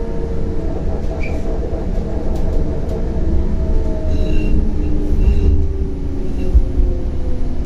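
CAF Urbos 100 tram under way, heard from inside: its traction motor whine slowly falls in pitch as the tram slows, over a heavy low rumble of wheels on rails. Brief high squeaks come about halfway through.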